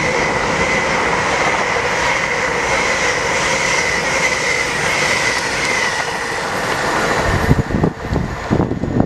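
Train passing along the platform: a loud, steady rush of wheel and rail noise with a high squealing tone. It fades about six seconds in, and low buffeting thumps follow near the end.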